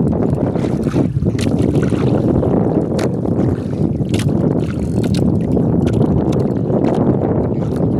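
Loud steady low rumble of a small boat on the water, with wind buffeting the microphone and a few sharp clicks.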